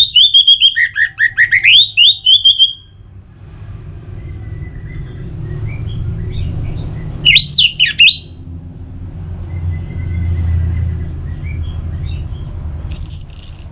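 Orange-headed thrush singing. It gives a loud run of rapid, sliding whistled phrases in the first few seconds, a short loud phrase about halfway through, and high thin notes near the end, over a steady low rumble.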